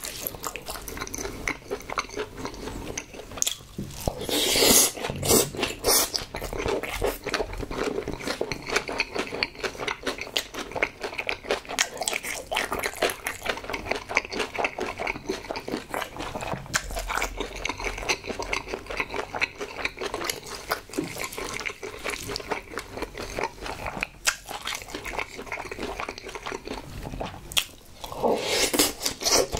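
Close-miked chewing of gelatinous braised pig's trotters (jokbal) and spicy mixed noodles: a continuous run of wet smacks and squelches. Louder bites come about four seconds in and again near the end, as a spoonful of noodles goes into the mouth.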